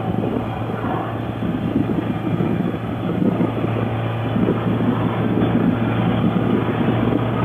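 Motorcycle engine running steadily under way, a constant low hum beneath rushing road and wind noise.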